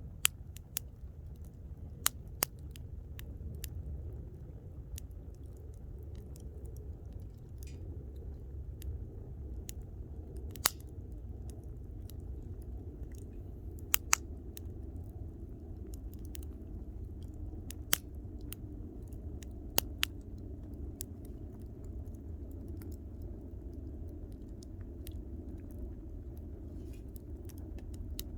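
Wood campfire crackling: sharp pops and snaps at irregular intervals over a steady low rumble.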